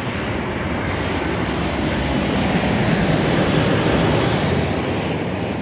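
Aircraft engine noise passing close, a rushing roar that builds to a peak about three to four seconds in and then eases off.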